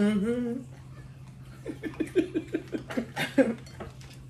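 A person humming a held, wavering note that stops about half a second in, then laughing in a run of short chuckles, about four a second, for nearly two seconds. A steady low electrical hum sits underneath.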